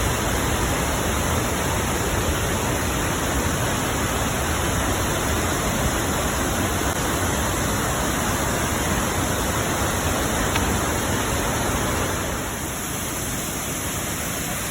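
Steady rush of water pouring down waterfall cascades, a little quieter from about twelve seconds in.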